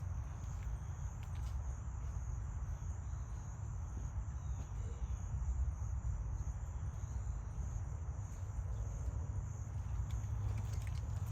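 1989 Carrier Tech 2000 central air conditioner condensing unit running with a steady low hum, while insects trill steadily and high-pitched in the background.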